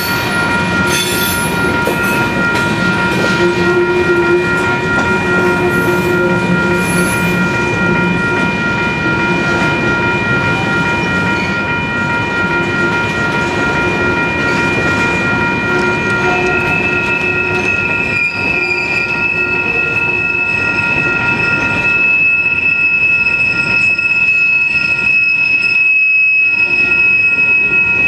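BNSF freight train's cars rolling past with a steady rumble and sustained high-pitched wheel squeal. A stronger, higher squeal tone joins about two-thirds of the way through.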